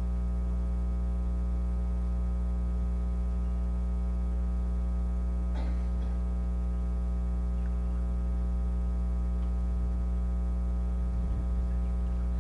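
Steady electrical mains hum, a low buzz made of many even tones, with a faint brief rustle about halfway through.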